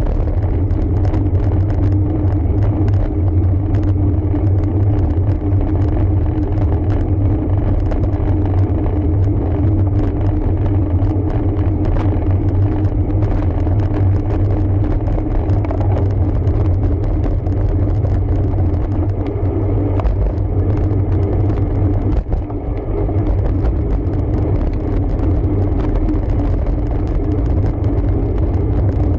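Steady low rumble of wind and road noise picked up by a camera on a road bike climbing a paved mountain road.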